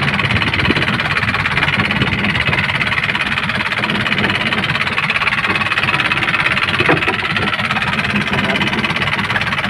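A boat's engine running steadily under way, a dense, even drone with a fast low pulsing.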